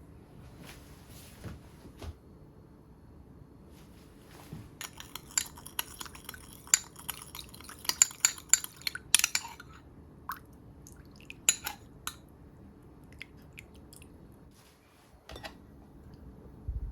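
Kitchen utensils clinking against a pan or dish, a quick run of sharp clinks in the middle with a few scattered ones before and after.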